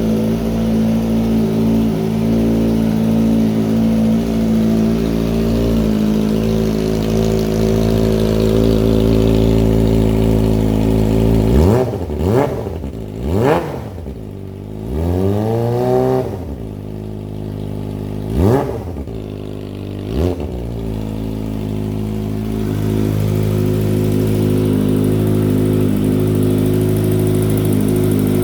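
Kawasaki ZX-25R's 250 cc inline-four idling steadily through a Franz Pro Race aftermarket muffler, then revved in five quick throttle blips about halfway through, one held a little longer, before settling back to idle.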